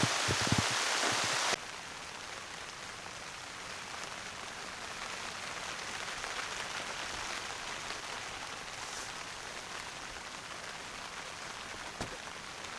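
Heavy rain falling, loud with a few low drop thuds at first, then cutting sharply to a softer, steady rain about a second and a half in. A single click near the end.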